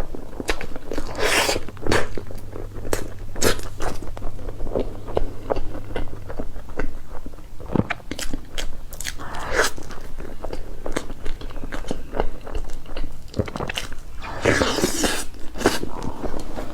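Close-miked eating sounds: a person biting and chewing cake, with many sharp, irregular mouth clicks and wet smacks.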